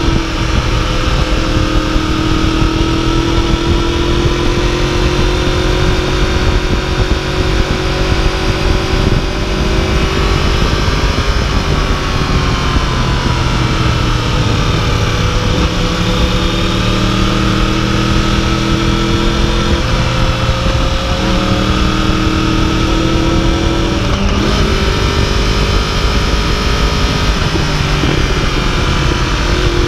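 2015 Yamaha YZF-R1's inline-four engine running under way, its pitch gliding up and down and stepping several times as the bike changes speed, under steady wind rush.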